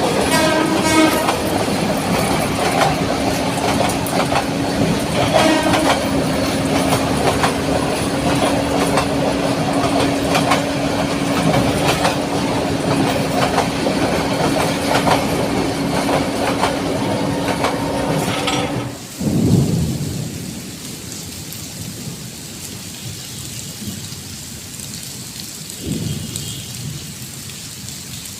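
Train running on rails with clickety-clack and a long steady tone, which cuts off abruptly about two-thirds of the way through. Quieter steady rain follows, with a couple of low rumbles like distant thunder.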